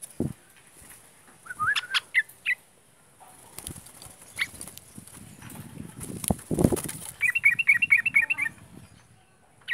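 Yellow-vented bulbul (trucukan) calling: a few bubbly chirps about a second and a half in, a loud rustling burst around six to seven seconds in, then a quick run of about nine clipped notes near the end.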